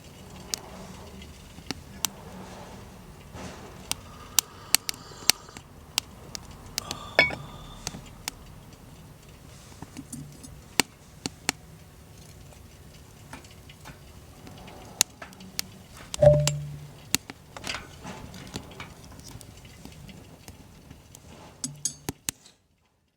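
Irregular sharp clicks and light ringing clinks, with a louder knock about 16 seconds in; the sound cuts off shortly before the end.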